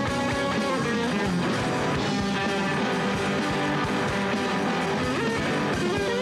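Live rock from a guitar-and-drums trio: distorted electric guitars over a steady drum beat.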